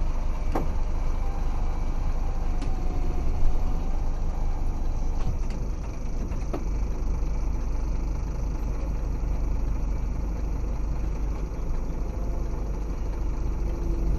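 Diesel engine of a Scania 26-tonne curtainsider truck running steadily, heard from inside the cab, with a few short sharp knocks in the first half.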